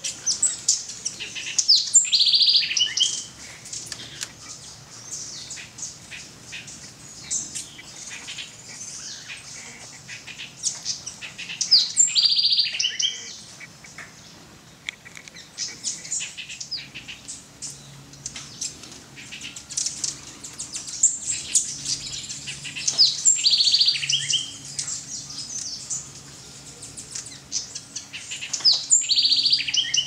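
Birds calling: loud bouts of rapid, high chattering notes, four times, with quieter calls between.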